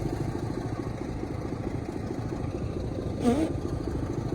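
A diesel engine running steadily, a low rumble with fast even pulsing. About three seconds in there is a brief rising call, like a short shout.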